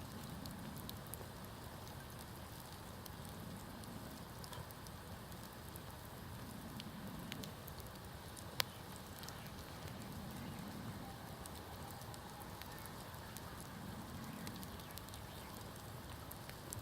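Wood campfire crackling with scattered small pops and one sharp, louder pop about halfway through, over a low rumble that rises and falls every few seconds.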